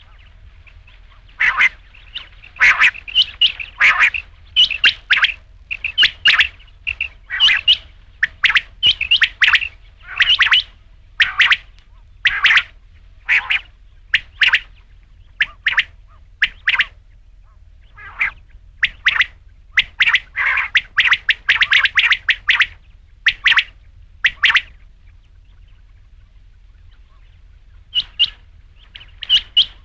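Quail calling: a long run of short, sharp, repeated notes, about one or two a second, pausing for a few seconds near the end and then starting again.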